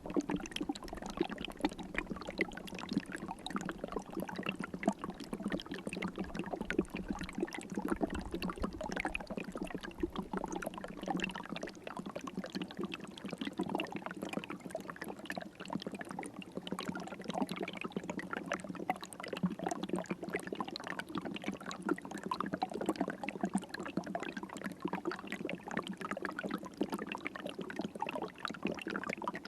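River water flowing and babbling steadily, a dense even trickling. A low rumble underneath fades out about ten seconds in.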